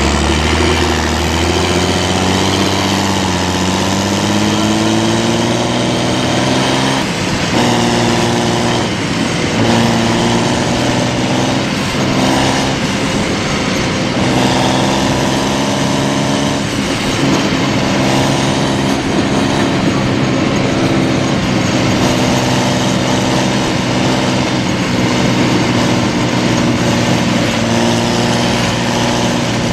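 Heavy military diesel engines running hard while an M113B armoured personnel carrier tries to pull a bogged Engesa EE-25 6x6 truck free. The engine note climbs over the first few seconds, then holds, shifting pitch several times.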